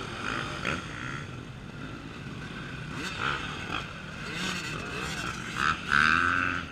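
Off-road enduro motorcycle engines revving unevenly, the pitch rising and falling, with a loud rev about six seconds in.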